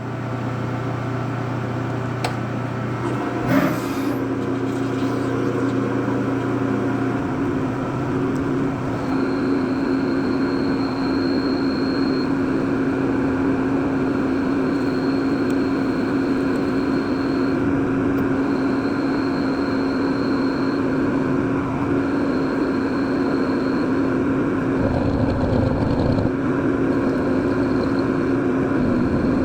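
Okuma CNC lathe running with its door closed, spindle turning and coolant spraying as it machines a 416 stainless steel shifter knob. A steady hum settles in about four seconds in, and a thin high whine comes and goes from about nine seconds on.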